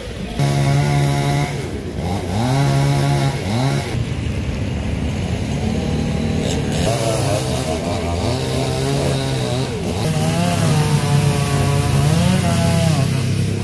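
Two-stroke chainsaw running at full throttle, its engine revving up and dropping back repeatedly as it cuts through a fallen tree.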